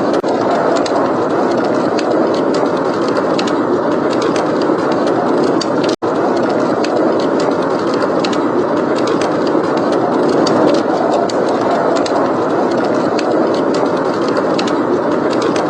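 Steady heavy wind of a blizzard, with fireplace crackling as scattered sharp pops over it. The sound cuts out for a split second about six seconds in.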